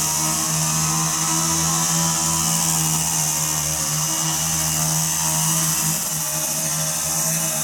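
A weed eater's small engine running steadily with an even, unbroken note.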